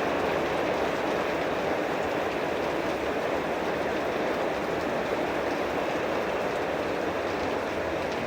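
Heavy thunderstorm downpour: a steady, even rush of rain that holds the same level throughout.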